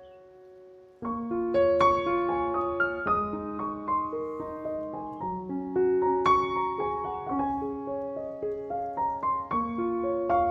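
Background piano music: a gentle melody of piano notes and chords, starting again about a second in after a brief pause.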